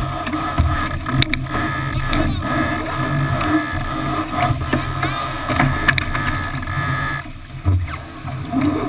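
Rushing water and wind noise aboard a Melges 24 sailboat planing in strong wind, heard through a waterproof-housed action camera, with a few sharp knocks. The noise drops briefly about three-quarters of the way through, then returns.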